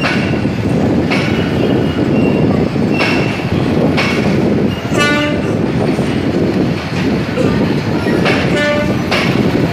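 Express passenger train rolling past, its wheels rumbling and clattering over rail joints in a steady run of knocks. Two short pitched sounds cut through, about five seconds in and again near the end.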